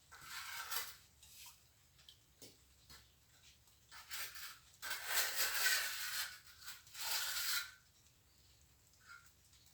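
Plastering trowel scraping and spreading mortar in several rough strokes: a short one near the start, then a longer run of strokes in the middle.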